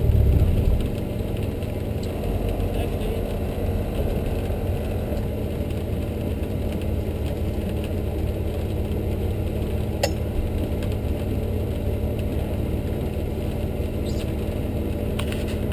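Mitsubishi Pajero's engine idling steadily with a low rumble, settling down from higher revs about a second in, with one sharp click about ten seconds in.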